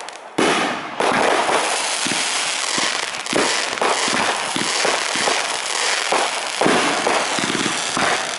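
Aerial fireworks bursting in rapid, overlapping succession, a dense barrage of bangs and crackle with hardly a pause.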